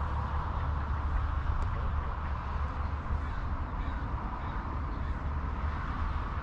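Crows cawing over a steady low rumble of background noise.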